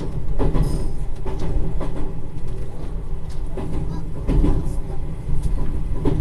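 Electric train running into a station, heard from inside the car: a steady low rumble with irregular sharp clacks of the wheels over points and rail joints.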